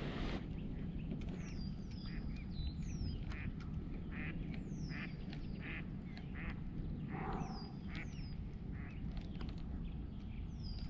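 Birds calling: a run of short calls and high, falling chirps, repeated every second or so, over a steady low rumble of wind or water.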